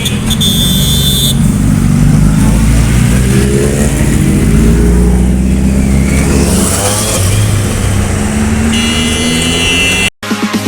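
Superbike engines revving and accelerating, the pitch climbing in the middle, with a high horn-like tone at the start and again near the end. The sound cuts off abruptly near the end.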